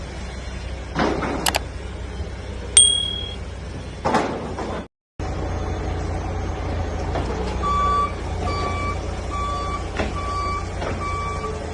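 A few sharp knocks and a brief high beep over a steady low hum, then an even electronic beeping about twice a second.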